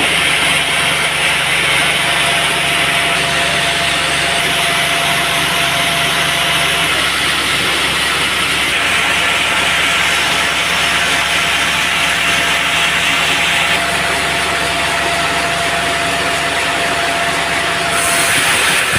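Band sawmill running steadily, its blade cutting through a teak log, with a thin steady whine over the noise that stops near the end.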